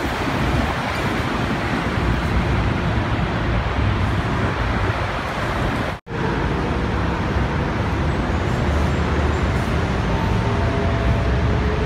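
Steady rumble of a diesel train and road traffic beside the tracks. The sound drops out for an instant about halfway through, then the same rumble carries on with a few faint steady tones near the end.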